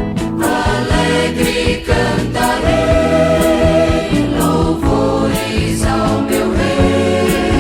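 Gospel music: a vocal group singing in harmony over a band with a steady drum beat.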